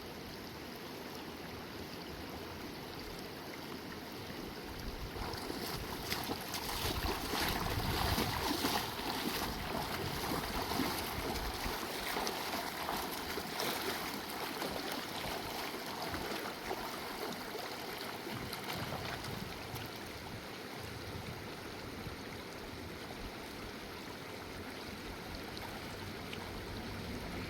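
River water running, a steady rush that swells louder for several seconds about a third of the way in, with short splashy crackles in it, then settles back.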